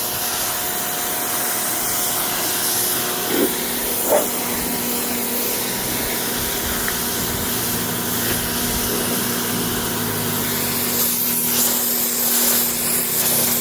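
Electric pressure washer running, its motor humming steadily under the hiss of a water jet spraying into car carpet. Two brief blips about three and four seconds in.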